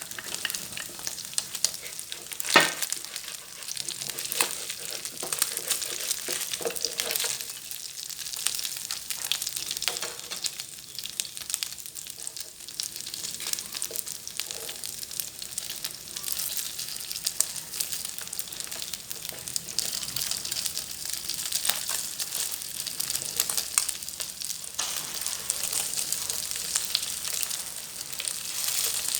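Small freshwater fish frying in hot oil: a steady sizzle full of small crackles and pops, with one sharp, louder pop about two and a half seconds in.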